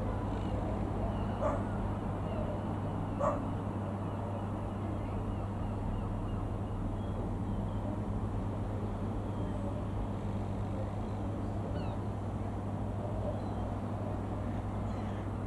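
A dog barking twice, short and sharp, a second or two apart near the start, over a steady low rumble with a constant hum.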